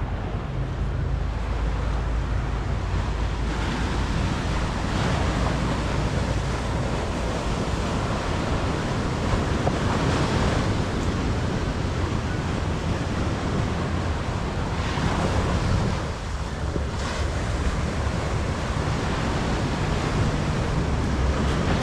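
Ocean surf washing onto the shore, swelling and easing several times, with wind buffeting the microphone.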